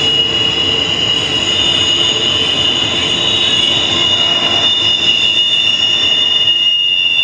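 Freight train of trailers on flatcars rolling past, with a steady rumble of wheels on rail. Over it, the steel wheels squeal in a high-pitched whine of several held tones.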